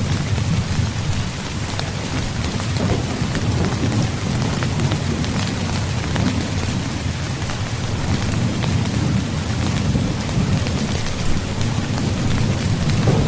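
Steady rain falling on a tent, with fine scattered drop ticks over a continuous low rumble of thunder.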